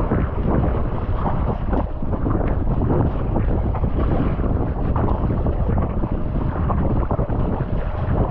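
Wind buffeting the microphone without a break, over the splashing of choppy sea water.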